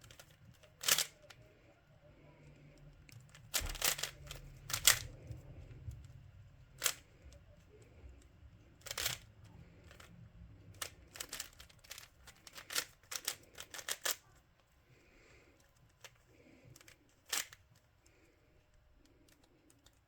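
Plastic puzzle cube clicking as it is handled and turned: scattered sharp clicks, with a quick run of turns about eleven to fourteen seconds in.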